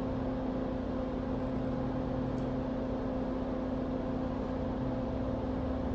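Steady electrical hum with an even fan-like hiss from running workbench equipment, with no clear changes.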